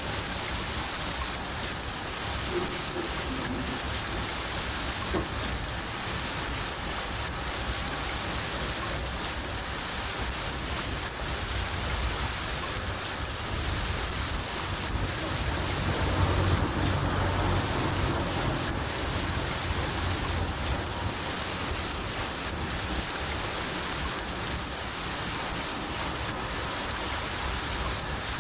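A cricket chirping steadily, about three high chirps a second, over the steady hiss of rain. A low rumble of thunder swells about sixteen seconds in and fades a few seconds later.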